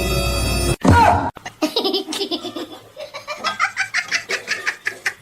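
Music cuts off just under a second in, followed by a loud, short cry and then a person laughing hard in quick, high-pitched repeated bursts.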